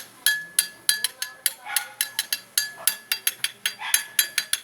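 A metal utensil clinking rapidly against a dish, several sharp ringing strikes a second, as in stirring or mixing.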